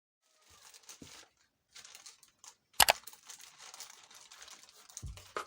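Soft, intermittent rustling and crinkling, like something being handled, with one sharp click a little under three seconds in.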